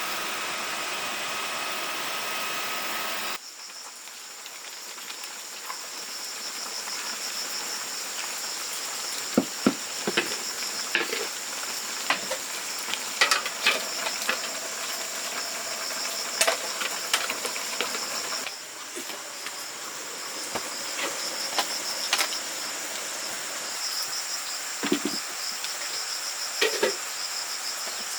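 A motor vehicle's engine running steadily for about three seconds, then cut off abruptly. Insects take over, trilling steadily at a high pitch, with scattered sharp clicks and knocks over them.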